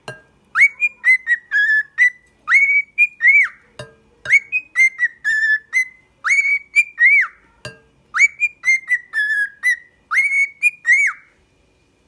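Pet bird whistling a short tune of rising-and-falling notes, the same phrase repeated six times, about one every two seconds.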